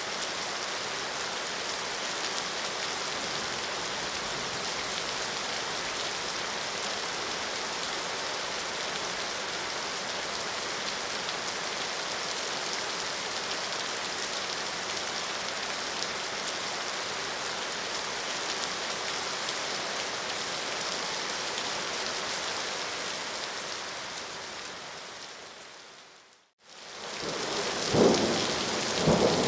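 Steady rain falling on a surface, fading out about three-quarters of the way through, then a new stretch of heavier rain with rumbling thunder near the end.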